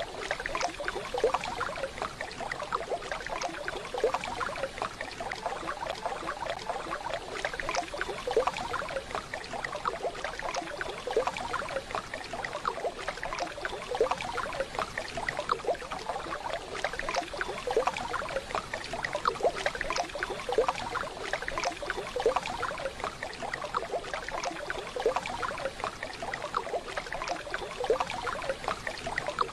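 Waterfall: water pouring and splashing steadily.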